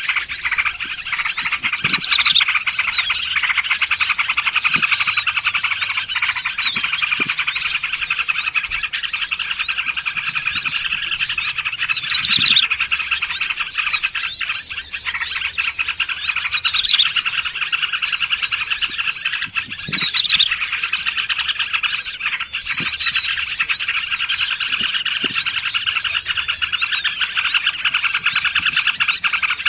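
Dense, unbroken chorus of small songbirds chirping and trilling over one another, a bird-trapping lure recording that layers sooty-headed bulbul, prinia and other forest bird calls.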